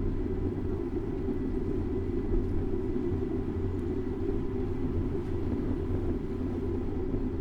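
Steady low rumble of city traffic and riding noise picked up by a bicycle-mounted action camera, with no sudden sounds standing out.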